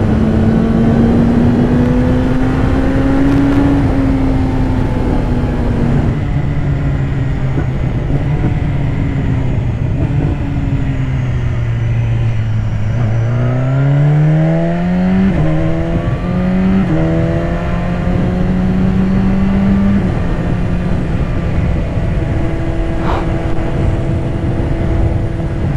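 2015 BMW S1000RR's inline-four engine under way over wind noise: the revs climb, then fall away slowly off the throttle, and about halfway through climb again through quick upshifts before settling at a steady cruise.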